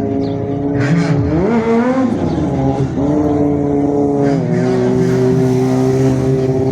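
Motorcycle engine revving: the pitch climbs sharply about a second in, falls back, then holds at a high steady rev with a small drop midway.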